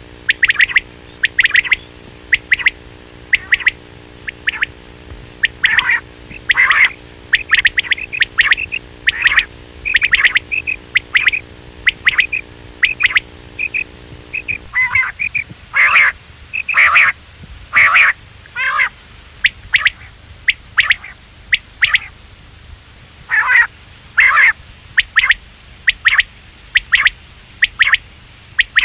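Quail calling: short, sharp squeaky notes, singly and in quick runs of two or three, repeated through, as played to lure quail. A low steady hum underneath cuts off about halfway through.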